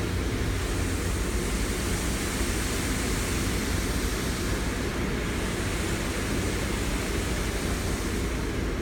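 Steady rushing noise of an automatic car wash heard from inside the car's cabin, with a low rumble underneath and a high hiss that eases for a moment midway and again near the end.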